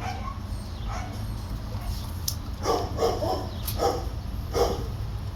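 Dogs barking, a run of short barks in the second half.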